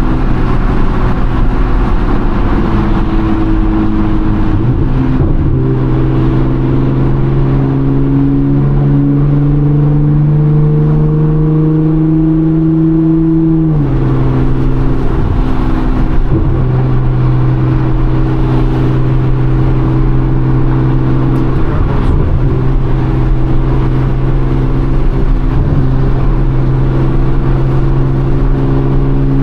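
Nissan GT-R R35's twin-turbo 3.8-litre V6 with full bolt-on modifications droning loudly under highway cruising, heard inside the cabin. Its pitch steps up about five seconds in and climbs slowly. It then drops sharply about halfway through and holds steady.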